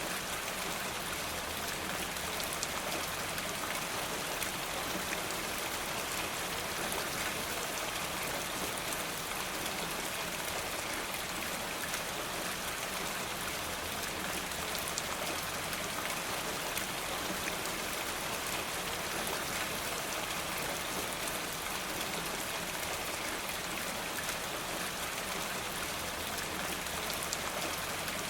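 Steady rain falling, a continuous even hiss with scattered faint ticks of single drops.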